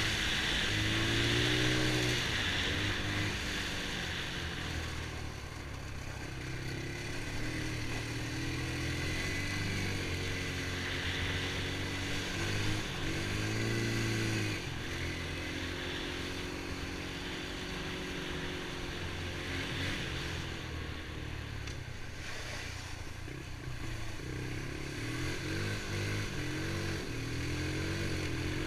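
Honda TRX90 ATV's small single-cylinder four-stroke engine running under way, its pitch rising and falling several times as the throttle opens and closes.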